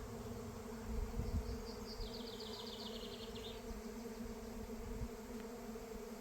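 Honey bee swarm in flight: the steady buzz of many bees' wings. A brief rapid high-pitched trill sounds over it from about a second in, for about two seconds.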